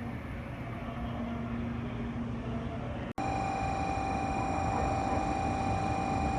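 Steady running rumble of a 500 Series Shinkansen train. About three seconds in, an abrupt cut leads to a louder stretch with a steady high whine over the rumble.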